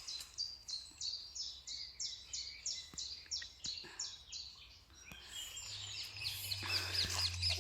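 Songbird singing: a run of about a dozen quick, evenly repeated high notes lasting some four seconds, then a different, more varied twittering phrase.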